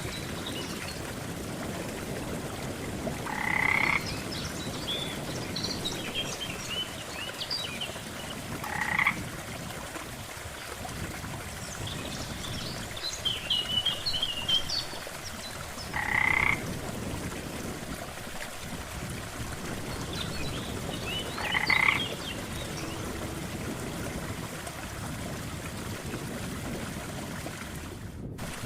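Frogs croaking at a pond, one loud rasping call about every five to six seconds with smaller high chirps in between, over a steady low background wash. The sound cuts out briefly near the end.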